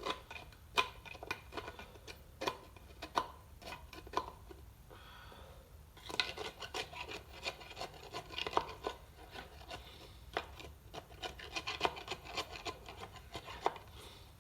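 Irregular hand-work sounds: hard objects rubbing and scraping, with many short sharp clicks and knocks, quieter for a moment about five seconds in and busier after.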